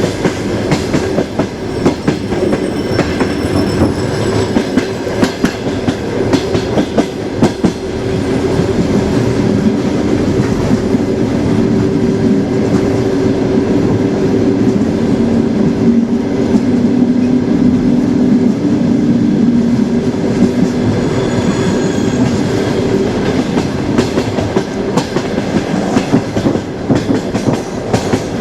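A train's wheels running steadily along the rails: a continuous rumble with a low drone and repeated clicks as the wheels cross rail joints. Faint high wheel squeals come a few seconds in and again near the end.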